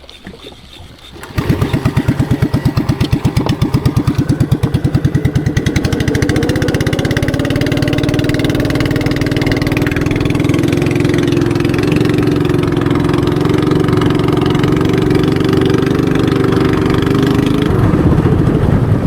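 Boat engine starting abruptly about a second in and running loud with a fast, even beat, picking up speed around six seconds in, holding steady, then easing back near the end.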